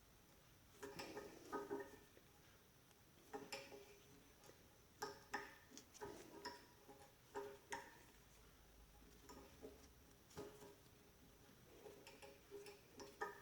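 Faint, irregular clicks and ticks of a quarter-twenty hand tap being turned through a drilled hole in a flat bar, cutting threads, with a small click each time the tap bites or breaks a chip.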